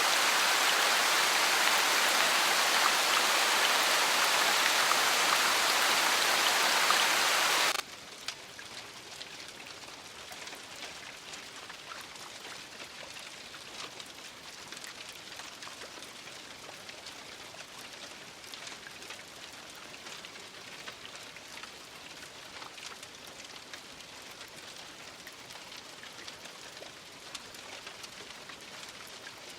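Steady rain: a dense, loud rush of heavy rain for about the first eight seconds, then an abrupt change to quieter, lighter rain in which separate drops tick on a surface.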